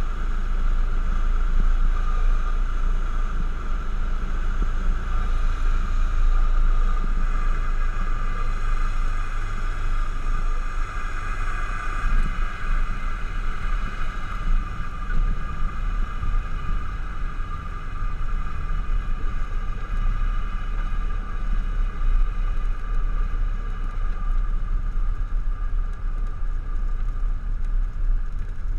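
Cessna 172's piston engine and propeller running with a steady drone, a high hum sitting over a deep rumble, even in level throughout.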